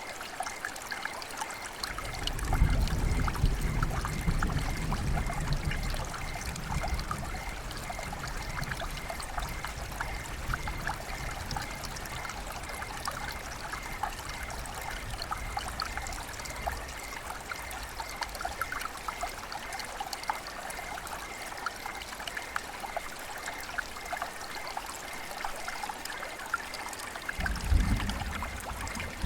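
River water flowing and trickling, a steady babble of small splashes. A low rumble swells about two seconds in, dies away over several seconds, and returns near the end.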